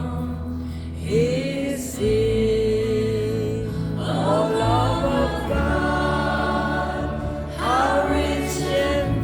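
A slow gospel hymn sung by voices, held long notes with slides up into them, over sustained accompaniment chords.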